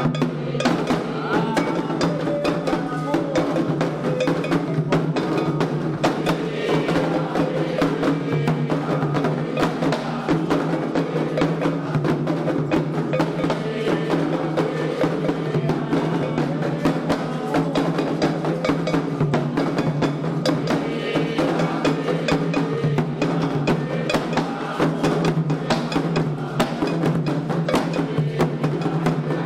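Candomblé ritual drumming: atabaque hand drums and a struck bell playing a dense, steady rhythm without a break, with voices singing along.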